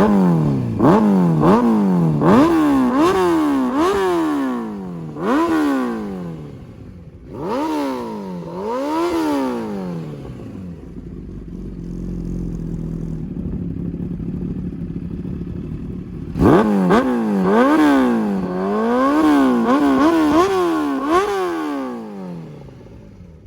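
2011 Kawasaki Ninja ZX-10R inline-four revving through a custom Hindle full exhaust system: a run of quick throttle blips, each rising and falling in pitch, settling to a steady idle about halfway through, then another run of blips before it quietens near the end.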